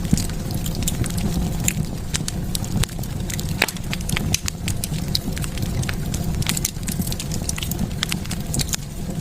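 Wood fire burning in a fireplace: irregular sharp crackles and pops scattered throughout over a steady low rumble of the flames.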